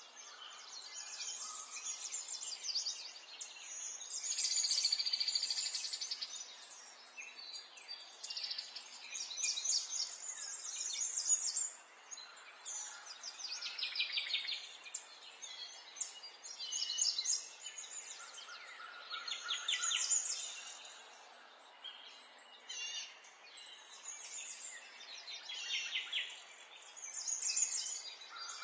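Several songbirds singing and chirping together, overlapping high trills and quick chirps every second or two, over a faint steady background hiss.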